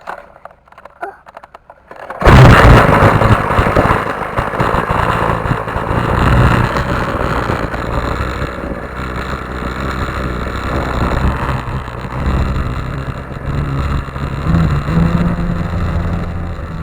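Small motocross bike engine starting suddenly about two seconds in, then running loudly and unevenly with small rises and falls in revs.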